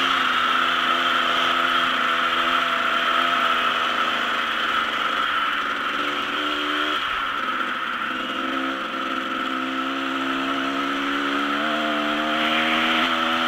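Dirt bike engine running while riding, its pitch rising and falling with the throttle: it drops off about halfway through and climbs again near the end. A steady hiss runs over it.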